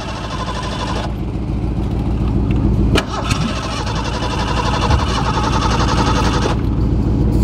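Pickup truck engine cranking over on its starter in the cold without catching, with a sharp click about three seconds in.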